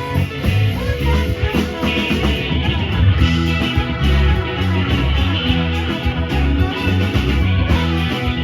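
Live band playing an instrumental passage without singing: guitar over bass notes that step from one pitch to the next.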